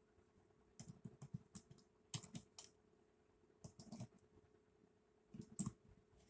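Light plastic clicks and taps in four short clusters from handling a small USB LED humidifier, over a faint steady hum.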